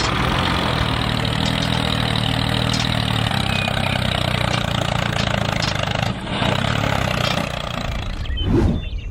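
Small engine running steadily, with a brief loud burst of sound about eight and a half seconds in.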